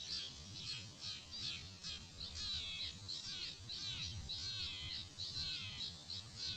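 Small birds chirping busily, many short overlapping chirps and twitters in quick succession, over a low rumble of wind on the microphone.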